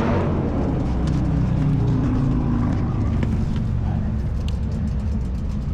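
Motorcycle engine running steadily under way, a low, even drone.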